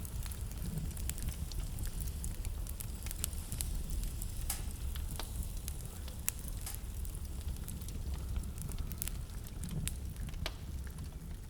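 Wood fire crackling in a fireplace, with frequent small pops and snaps over a low, steady rumble.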